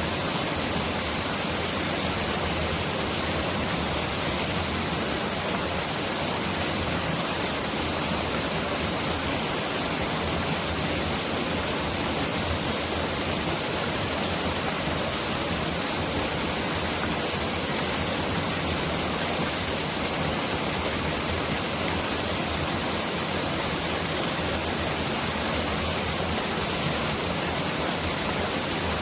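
Mountain stream rushing steadily over rocks, a dense even wash of water noise that the uploader likens to pouring heavy rain.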